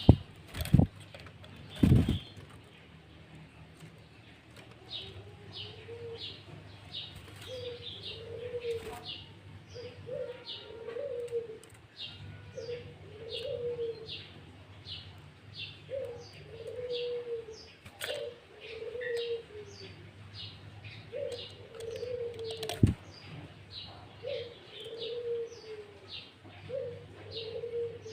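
Birdsong: a dove gives low, arched cooing notes over and over, about one a second, while a small songbird keeps up a steady run of short high chirps. A few sharp knocks come in the first two seconds, and another about 23 seconds in.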